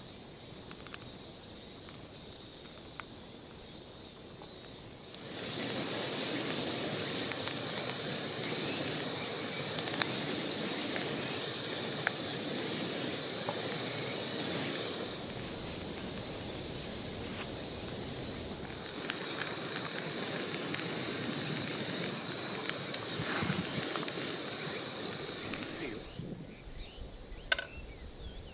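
Straw burning fiercely in a fire pit to sear bonito, a rushing roar full of sharp crackles and pops. It flares in two bouts, from about five seconds in to about fifteen seconds, and again from about nineteen to twenty-six seconds.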